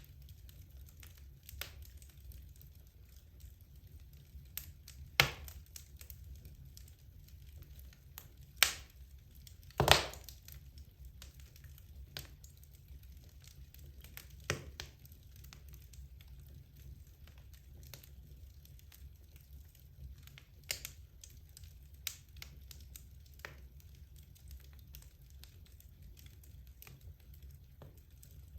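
Wood fire burning in a fireplace: a steady scatter of small crackles with three louder sharp pops about five, nine and ten seconds in.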